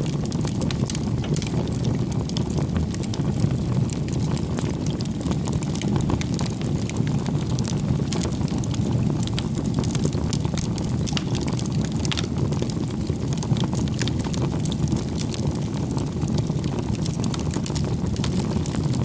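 Wood bonfire burning: frequent sharp crackles and pops of the wood over a steady low rumble.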